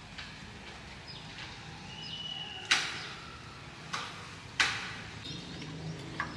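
Sharp knocks: two loud ones, about two and three-quarter and four and a half seconds in, and a couple of lighter ones, over faint bird chirping.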